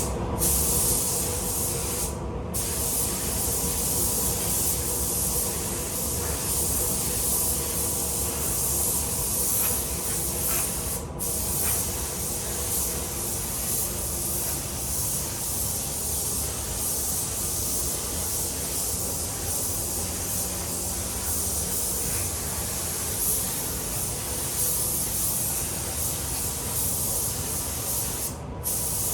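Compressed-air paint spray gun at about 2 bar spraying wet-on-wet primer: a steady hiss of air and atomised paint. It cuts out briefly three times as the trigger is let off between passes.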